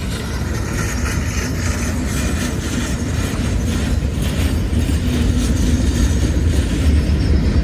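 Freight train rolling past at close range: a steady low rumble of wheels on rail with faint clacking, growing slightly louder.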